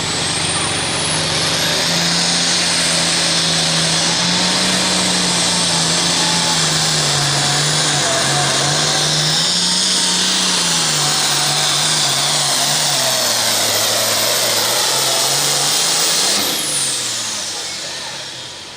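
Turbocharged diesel super farm pulling tractor at full throttle, with a high turbo whine climbing in the first couple of seconds and the engine note wavering and sagging under the sled's load. About sixteen seconds in, the throttle is cut: the turbo whine falls away and the engine dies down.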